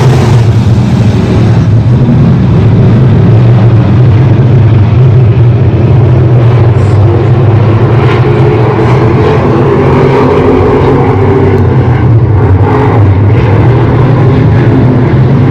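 Race car engines running loud and steady, a deep drone that wavers slightly in pitch as the cars circle the track.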